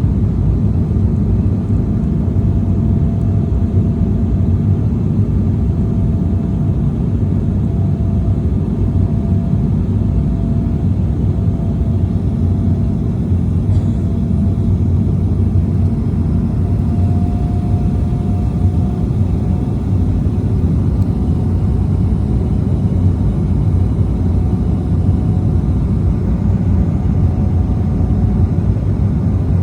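Steady cabin noise of an Embraer E190 jet airliner in flight: a constant low rumble of airflow and engines with a faint steady hum above it.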